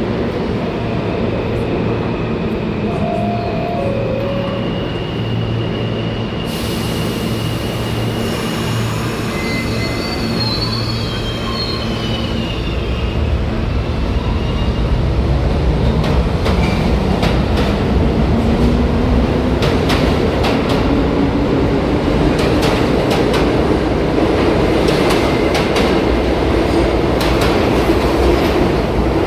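New York City Subway train in the station. A sudden hiss comes in about six seconds in, followed by brief high wheel squeal. From about halfway it gets louder, with a low rumble, a slowly rising motor whine as it picks up speed, and repeated clicks of wheels over rail joints.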